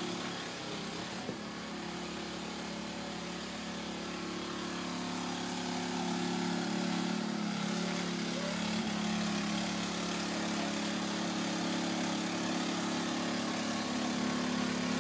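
An engine running steadily at a constant speed, a low, even hum that gets a little louder about six seconds in.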